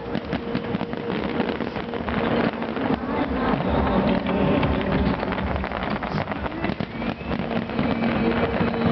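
A fireworks display: continuous dense crackling with deep booms of shells bursting.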